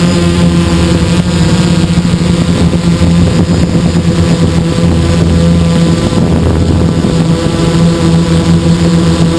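Hexacopter's six electric motors and propellers running steadily in flight, a loud hum of several steady tones over rushing air, heard close up from a camera carried on the aircraft.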